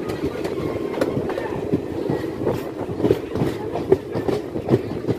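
Coach of a moving Indian Railways express train, heard from the open doorway: a steady rumble of wheels on the rails. About halfway in, a run of sharp clacks starts as the wheels cross rail joints.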